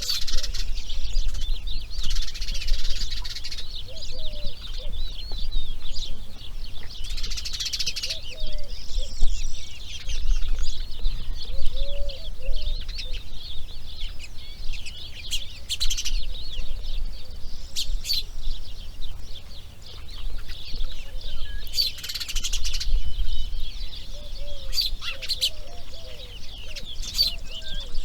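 Many birds chirping and calling, a dense, overlapping chatter of short high notes with a few brief louder flurries, over a low steady rumble.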